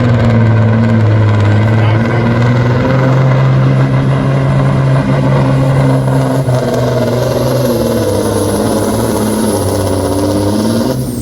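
Big diesel truck engine running loud and steady, a deep drone that shifts a little in pitch.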